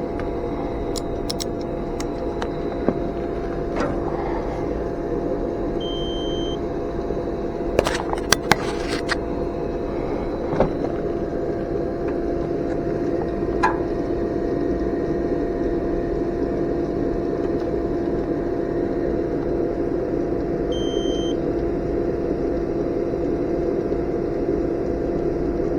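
Steady hum of running HVAC equipment, with scattered sharp clicks of handling or tool contact and two short high beeps, about six and twenty-one seconds in.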